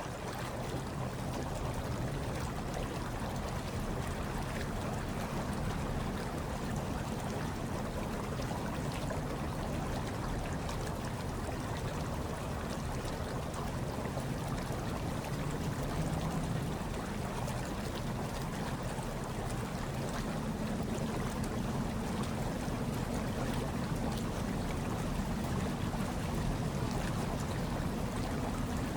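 Hot tub water running steadily: continuous water noise with a low rumble underneath.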